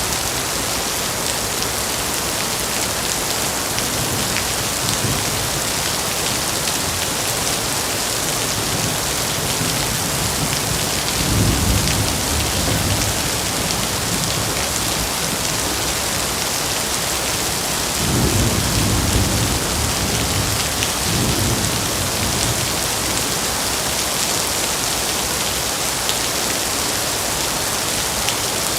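Steady heavy rain hissing, with thunder rumbling low twice: once about eleven seconds in and again, longer, from about eighteen seconds in.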